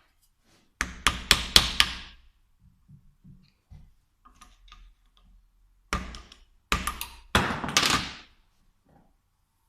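Sharp knocks from work on a diesel injection pump being taken apart: a quick run of about five in the first two seconds, then three more between about six and eight seconds in.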